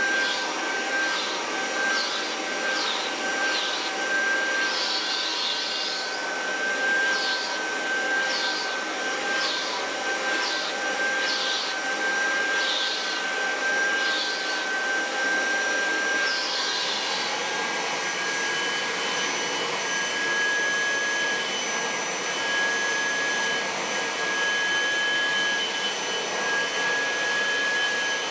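Kirby Heritage II upright vacuum cleaner running with a steady high whine, with short hissing swishes recurring irregularly, roughly every half second to a second, until a little past halfway, after which it runs steadily.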